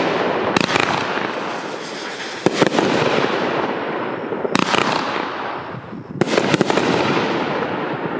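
Consumer XL aerial finale set firing: four sharp reports about two seconds apart, each followed by a long hiss that fades away.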